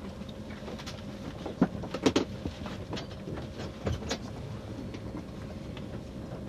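Inside a TGV Atlantique passenger car as the train moves slowly out of the station: a steady low rumble and faint hum, with scattered clicks and knocks from the carriage, the loudest cluster about two seconds in.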